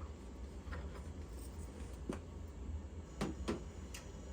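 Faint scattered clicks and light scrapes of small metal fittings being handled: the steam boiler's pressure control, just removed from its pigtail, is being checked for a blockage. A low steady hum runs underneath.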